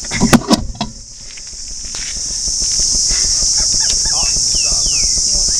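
Steady high-pitched insect chorus buzzing without a break, with a few short falling chirps near the end.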